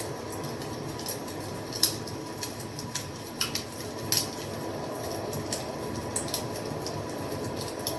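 Wood fire crackling: irregular sharp pops and snaps of varying size over a steady hiss, with the sharpest pops about two and four seconds in.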